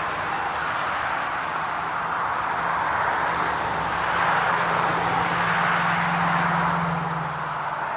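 Jet aircraft engine noise: a steady rushing sound with a low hum that comes in after about a second and a half and stops near the end.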